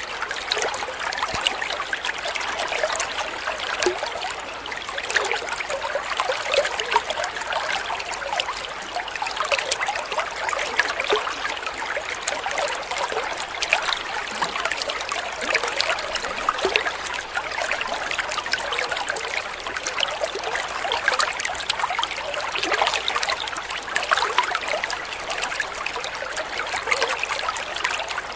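Water trickling and babbling steadily over stones, like a small stream, with many tiny splashes in a continuous rush.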